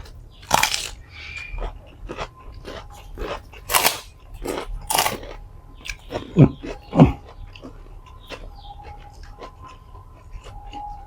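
Close-miked eating: crisp food being bitten and chewed, a string of crunches and mouth clicks, with two louder, deeper bites a little past the middle.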